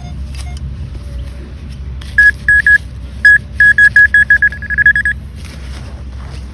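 Metal detecting pinpointer beeping at one high pitch: a few separate beeps, then a quickening run of beeps as the probe closes in on a buried metal target in the dug hole.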